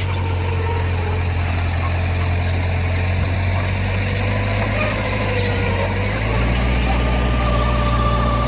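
Heavy machinery diesel engine running steadily; its low tone shifts and grows slightly louder about six seconds in.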